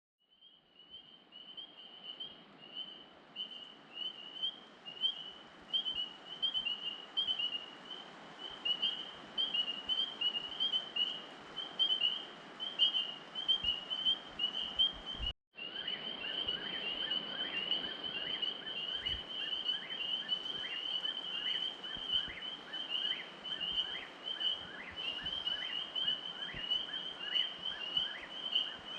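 A chorus of rapid, high chirping calls from wild animals, fading in at the start. After a short break about halfway through, repeated falling chirps join in.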